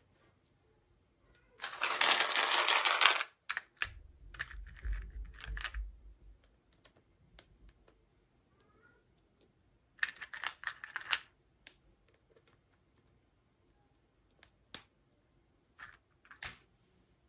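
Toy packaging being unboxed by hand: two loud bursts of plastic packaging rustling, one about two seconds in and one about ten seconds in, with soft thuds and scattered small clicks and taps of plastic parts in between.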